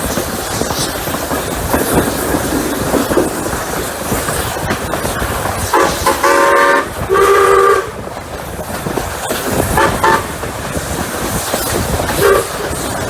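Double-headed steam locomotives Rx207 and 621 running under load, with a steady train rumble. About six seconds in, two whistle blasts sound back to back, the second on a different set of tones. Two short toots follow, near ten and twelve seconds.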